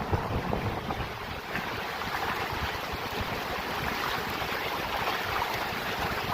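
Steady rushing of mountain water, with wind gusting on the microphone in low rumbles.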